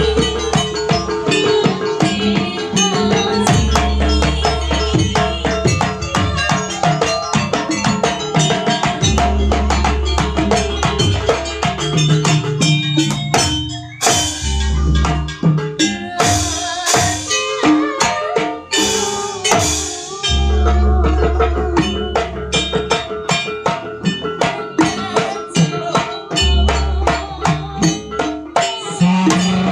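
Live jaranan accompaniment: a Javanese percussion ensemble of drums and gamelan-style metallophones playing a fast, dense beat over deep booming low notes. About halfway through the playing thins to sparser sharp strokes with bright cymbal-like crashes, and the full beat comes back near the two-thirds mark.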